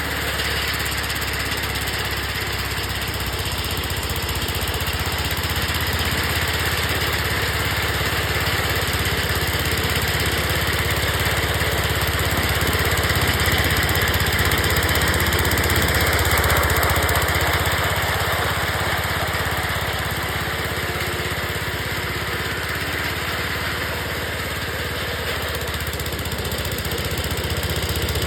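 Engine of a 1974 Wheel Horse garden tractor running steadily under work, swelling a little louder around the middle.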